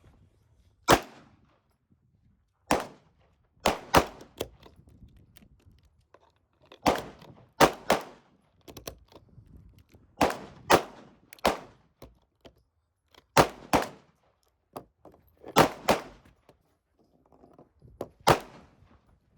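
A series of about fifteen sharp, loud bangs at irregular intervals, several in quick pairs, each dying away quickly.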